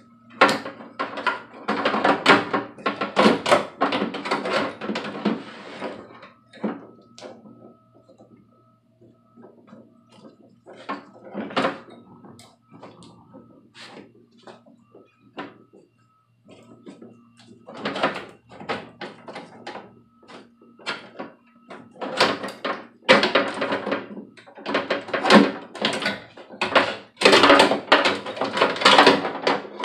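Repeated clicks, knocks and rattles of hand tools and metal parts being worked inside a car door while the window regulator is unbolted. The sound comes in dense bursts, with a quieter stretch in the middle.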